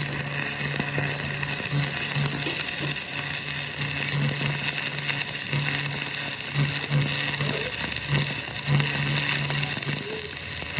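Steady mechanical workshop noise, with a low hum that repeatedly cuts in and out.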